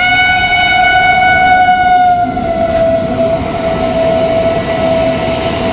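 Train horn sounding a long multi-tone blast after a brief break, then thinning to a single held tone after about two seconds, over the steady rumble of a passing train.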